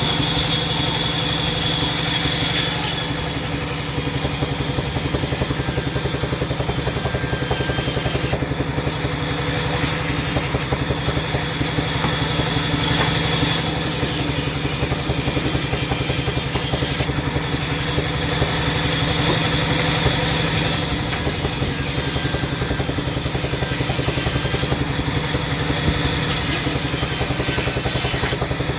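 Sawmill saw machinery running steadily, a loud mechanical hum with a fast even pulse, under a high hiss that drops out briefly several times.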